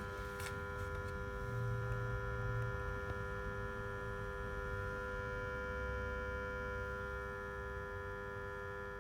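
Aging magnetic switch (contactor) in a switchboard humming loudly and steadily, a buzz of several fixed tones: its worn relay has poor contact and vibrates, and the vibration resonates in the panel.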